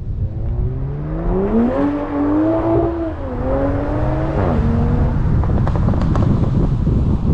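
Toyota Supra's B58 turbocharged inline-six revving under acceleration: the engine note climbs, dips about three seconds in and climbs again, then drops off sharply about four and a half seconds in. A few sharp exhaust pops follow near six seconds.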